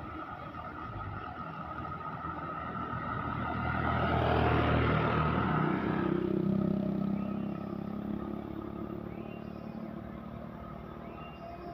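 Truck engine passing close by, growing to its loudest about four to six seconds in and then fading as it moves away.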